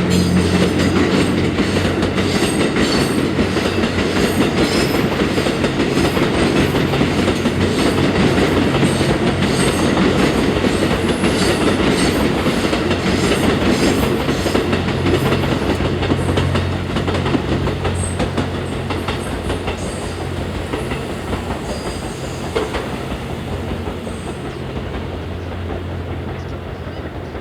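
JR West Series 87 Twilight Express Mizukaze diesel-hybrid sleeper train running past, with wheels clacking over the rail joints over a steady engine hum. The sound eases off over the last ten seconds or so as the train moves away.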